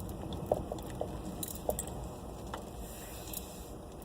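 Faint low rumble with a few short soft clicks in the first two seconds and a brief hiss about three seconds in.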